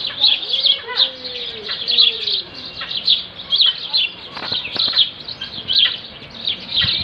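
Many small birds chirping at once in an aviary, a dense unbroken chatter of short high chirps.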